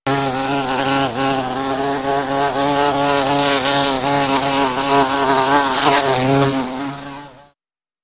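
Honeybees buzzing: a steady droning hum with a slightly wavering pitch, stopping about seven and a half seconds in.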